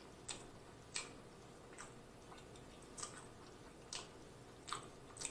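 Faint, close-miked chewing of a mouthful of sandwich: sharp wet mouth clicks and smacks, roughly one a second, with little else between them.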